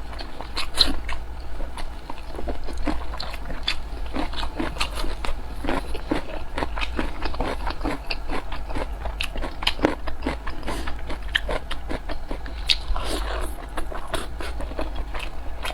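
Close-miked chewing of large steamed dumplings: a quick, irregular run of wet mouth clicks and smacks over a steady low hum.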